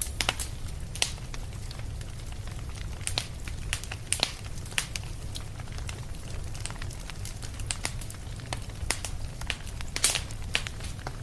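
Fireplace fire crackling, with irregular sharp pops over a steady low rumble; one louder pop comes near the end.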